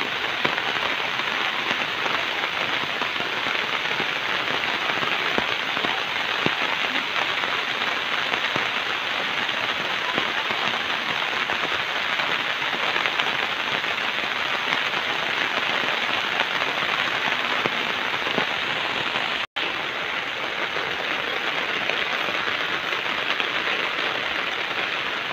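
Steady rain falling, an even hiss with no break except one instant dropout about three quarters of the way through.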